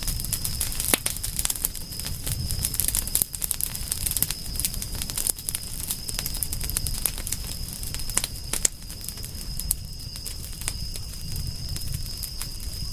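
Wood fire crackling, with many quick sharp pops and snaps over a low steady rumble of flames, and a thin steady high tone underneath.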